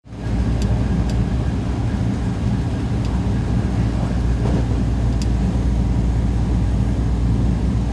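Electric train running along the line, heard from inside the passenger car: a steady low rumble of wheels on rail and running gear, with a few faint high ticks.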